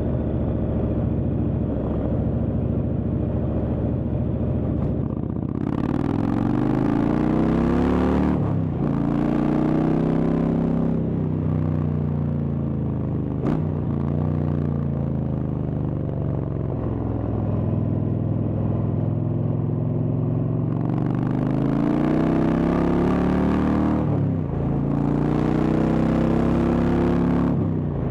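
Indian Chieftain's Thunderstroke V-twin engine through a Freedom Performance exhaust, at a steady cruise and then accelerating hard. Its note climbs, drops back at each upshift, and climbs again several times.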